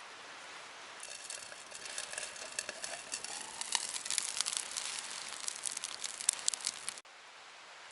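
Wood fire crackling, with many sharp pops over a thin hiss. It builds up about a second in and cuts off abruptly near the end.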